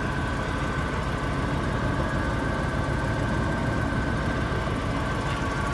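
1973 Chevrolet Corvette Stingray's V8 engine idling steadily.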